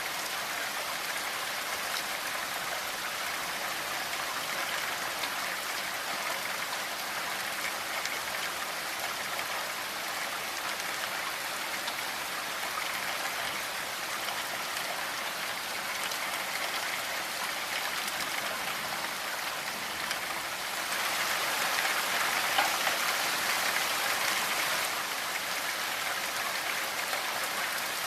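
Steady rainfall with dense pattering drops, swelling heavier for a few seconds past the middle and easing back near the end.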